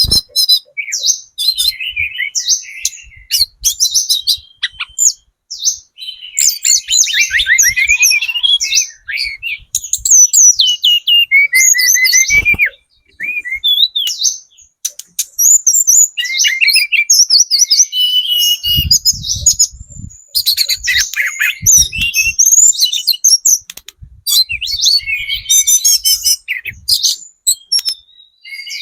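Tledekan gunung (hill blue flycatcher) in speckled juvenile plumage singing. It gives long, fast, high-pitched warbling phrases full of trills and sliding notes, with brief pauses between them. A few faint low knocks come about two-thirds of the way through.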